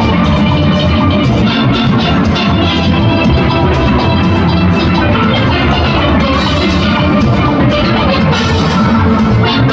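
Junior steel orchestra playing live: many steelpans with a drum kit and engine-room percussion keeping a steady beat.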